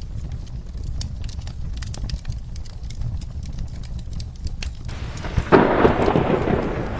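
Wood fire crackling over a steady low rumble, with many small sharp pops. About five and a half seconds in, a loud clap of thunder breaks in with a rush of rain.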